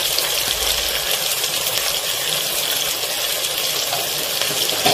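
Chopped onion, tomato, green chilli and curry leaves sizzling in hot oil, a steady hiss as the tomatoes fry down for a curry base. A short knock near the end.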